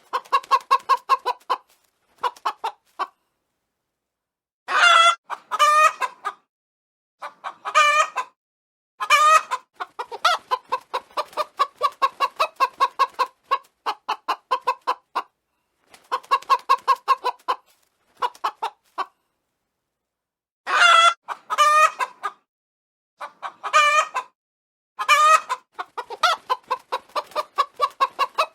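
Chickens clucking in quick runs of short notes. These are broken by several louder, longer calls, mostly in pairs, and a few short pauses.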